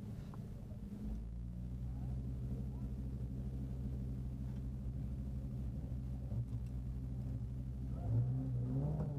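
Audi Quattro rally car's engine idling steadily, heard inside the cabin, with the revs rising louder near the end.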